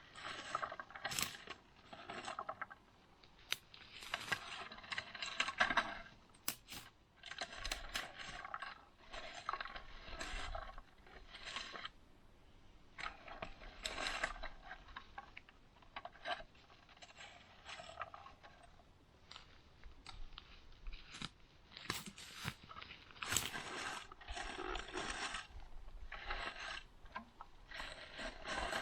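Irregular rustling and scraping with many sharp clicks and snaps, from someone moving through forest undergrowth and picking lingonberries.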